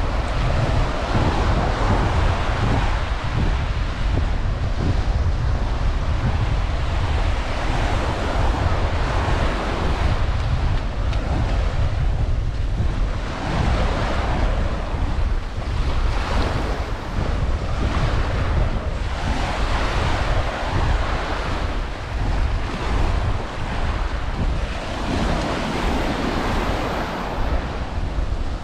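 Ocean surf washing onto a sandy beach, swelling every few seconds, over steady wind rumbling on the microphone.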